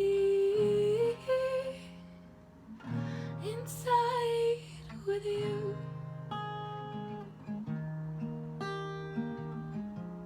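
A woman's held sung note ends about two seconds in and a short wordless vocal phrase follows around four seconds, then the acoustic guitar plays on alone as the song's outro.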